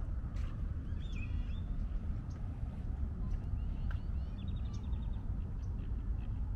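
Small birds chirping, with a quick even trill about two-thirds of the way through, over a steady low rumble.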